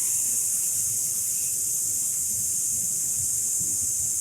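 A person exhaling a long, steady "ssss" hiss through the teeth: the lung sound of the Taoist Six Healing Sounds, held as a slow release of breath.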